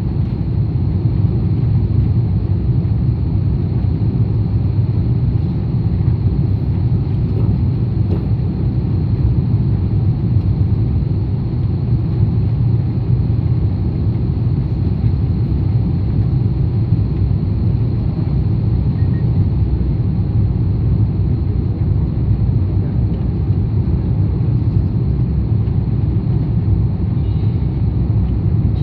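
Steady low vehicle rumble, even throughout with no rise or fall, plus a faint steady high tone.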